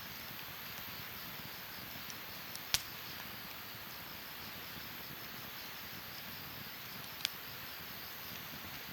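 Wood campfire burning with a steady hiss and two sharp crackling pops, a loud one about three seconds in and a smaller one about seven seconds in.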